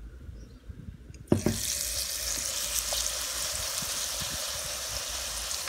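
A spoonful of battered small shrimp is dropped into hot oil in a wok. It sets off a steady, strong sizzle that starts suddenly about a second in.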